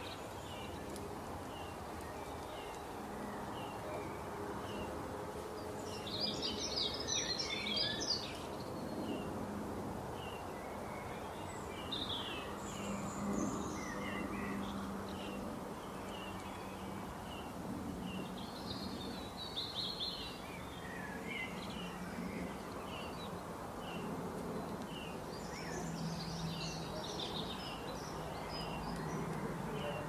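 Small songbirds chirping. One bird repeats a short high chirp every second or so, and louder bursts of quick twittering come in several times, over a steady background hiss.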